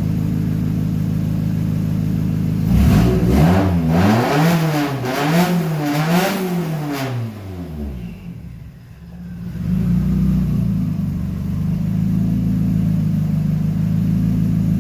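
Turbocharged SR20VET 2.0-litre inline-four engine in an RX-7 idling, then blipped up and down about four times in quick succession. The revs then fall back, the idle dips for a moment and settles steady.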